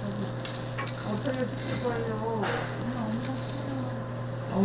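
Food sizzling as it fries on a hot flat griddle, a steady hiss broken by a few sharp clicks.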